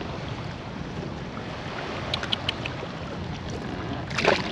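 Steady wind and water noise, with a few small clicks about two seconds in and a louder sharp knock or splash near the end.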